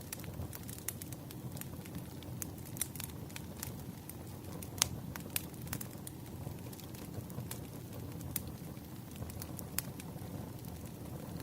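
Campfire crackling: a steady low rumble of burning with scattered sharp pops and snaps, the loudest about five seconds in.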